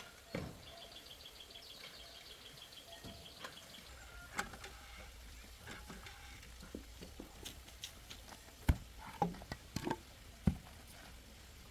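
A rapid trilling bird call lasts a few seconds at the start. Scattered sharp knocks and clicks follow, with a cluster of louder knocks near the end.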